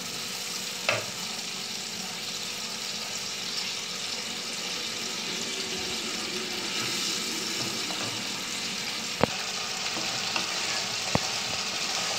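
Spicy tomato-onion masala sizzling steadily in a pan as fried spiny gourd slices go in and a wooden spatula stirs them. There is a sharp tap about a second in and two more near the end.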